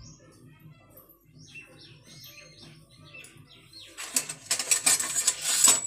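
Faint birds chirping over a low hum. About four seconds in, a loud burst of rustling, clattering noise lasts under two seconds.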